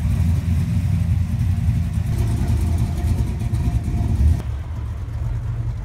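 A car engine running at idle: a steady low rumble. It drops and changes abruptly about four seconds in.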